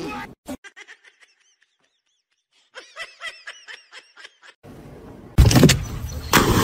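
A quick run of short, high-pitched chirping calls, about six a second, with a bobbing pitch. Then comes a loud rush of noise and, near the end, a big splash as a dog lands in a lake from a dock.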